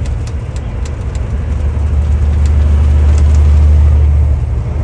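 Semi truck's diesel engine and road noise heard while driving: a steady low drone.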